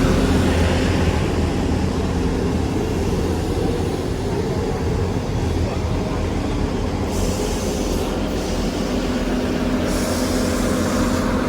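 Two coupled Class 158 diesel multiple units running at the platform: a steady low engine drone with a constant hum. Two spells of hiss come through about seven and ten seconds in.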